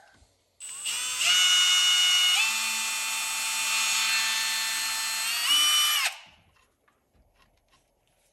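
Small power drill running for about five seconds as a steady whine. Its pitch drops a few seconds in, then rises again just before it cuts off.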